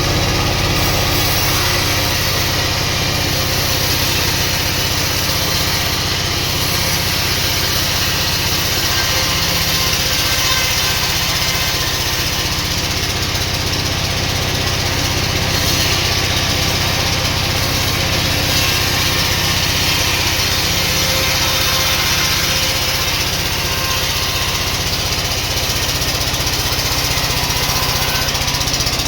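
Sawmill machinery running steadily: a constant motor hum under a continuous loud rushing noise.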